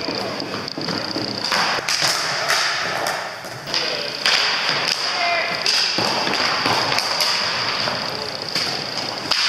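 Hockey game play: sticks and ball or puck knocking and thudding at irregular intervals, with players' voices calling out and a steady high-pitched whine behind.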